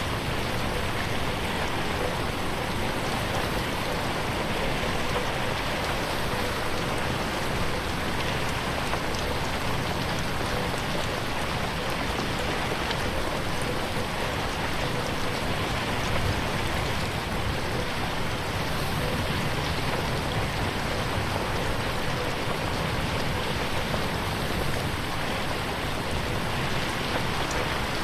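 Steady rain falling on a window, a dense even patter without pause or thunder.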